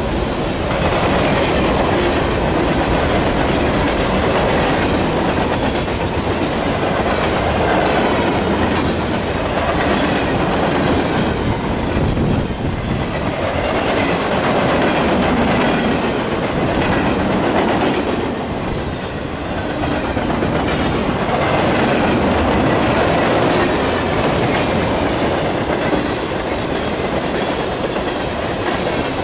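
A train's cars rolling past, steel wheels clicking over the rail joints in a steady rumble that swells and eases several times.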